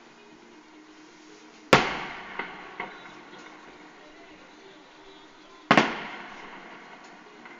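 Two loud firework shell bursts about four seconds apart, each a sharp bang that echoes away. Two smaller pops follow the first.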